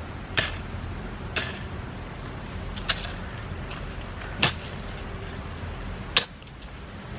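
Hoe (mammoty) chopping into soil five times, about once every one to one and a half seconds, as earth is cut and heaped up around the bases of chilli plants.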